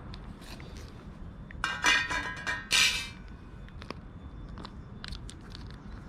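Dry cat food clattering into a feeding dish in a short loud burst, then scattered light clicks.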